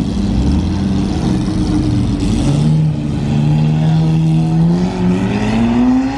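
Car engines running as cars pull out. One engine revs up, rising in pitch, near the end.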